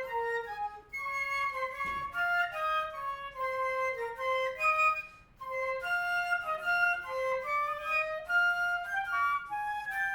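Wind ensemble playing a fast passage of many quick notes, with flutes and other high woodwinds carrying the line. The playing breaks off briefly about a second in and again about five seconds in.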